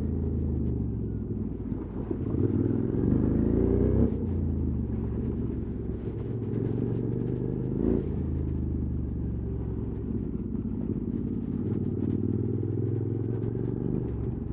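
QJ Motors SVT650X parallel-twin engine with an Arrow slip-on exhaust running under way: it revs up over about two seconds to a peak about four seconds in, drops off sharply, then revs briefly again about eight seconds in before settling back to a steady run.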